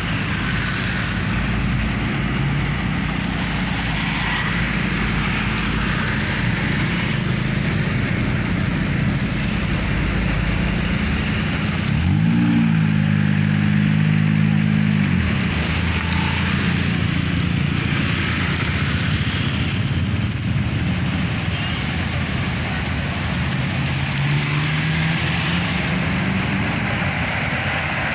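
Dense road traffic with the low steady running of heavy diesel bus and truck engines close by. About twelve seconds in, one engine revs up, holds for a few seconds and drops back, and another pulls away with rising revs near the end.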